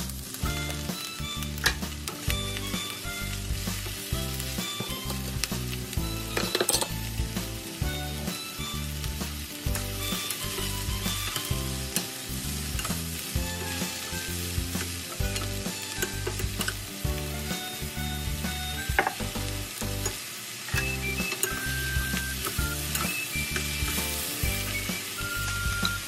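Sliced mushrooms and onions sizzling in a hot wok, stirred and scraped with a wooden spatula, with a few sharp knocks of the spatula against the pan.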